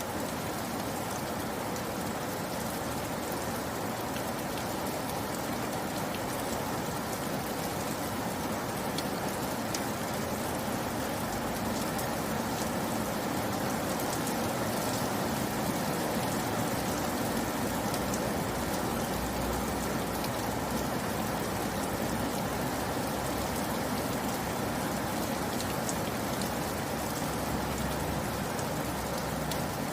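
Steady rain falling and pattering on surfaces, with scattered drops ticking.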